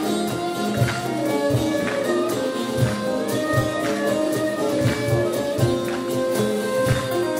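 Live Turkish folk music ensemble playing an instrumental passage: saz melody lines over a hand-drum and frame-drum beat, with no singing.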